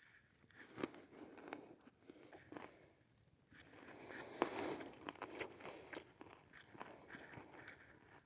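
Faint chewing and crunching of Brazil nuts and cassava flour, with scattered small clicks and a short break about three seconds in.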